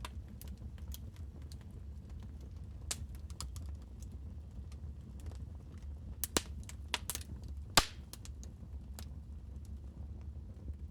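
Wood fire crackling in a fireplace: scattered sharp pops and snaps over a steady low rumble, with a few louder pops about six to eight seconds in.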